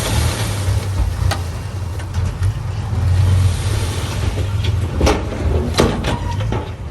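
Heavy construction machine's diesel engine running steadily with a low hum. A few sharp metallic clanks come through about a second in and again several times between five and six seconds.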